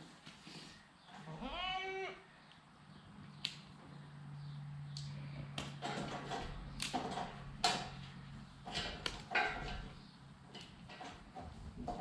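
A young buck goat bleats once, a short wavering call about a second and a half in. A string of sharp clicks follows, with a low steady hum under the middle stretch.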